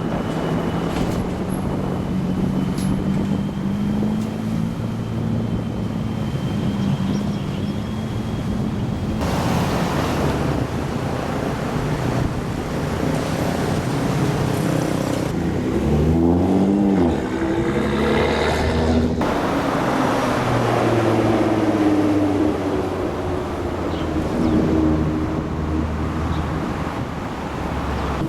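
Supercar engines running as the cars pull away from a meet, with one engine revved sharply up and back down about sixteen seconds in.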